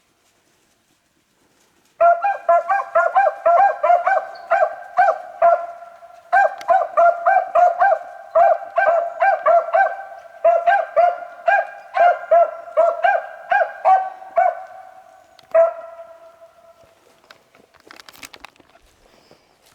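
Beagle hounds baying in quick repeated calls, several a second, while trailing a rabbit on its scent. The baying starts about two seconds in and stops a few seconds before the end.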